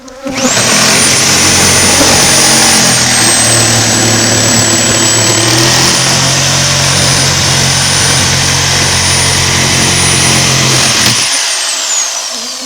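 A high-speed electric motor runs loud and steady with a high whine for about eleven seconds. Its pitch sags for a few seconds in the middle as if loaded, then recovers, and it winds down with a falling whine near the end.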